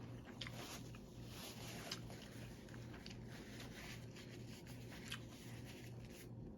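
Faint chewing of food, with a few soft clicks over a low steady hum.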